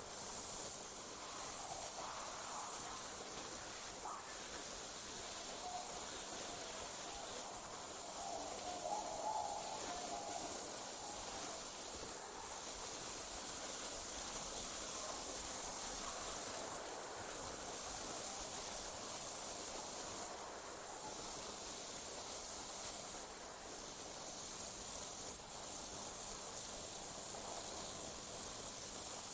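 Night insects, crickets, trilling in a continuous high-pitched chorus that breaks off briefly every few seconds.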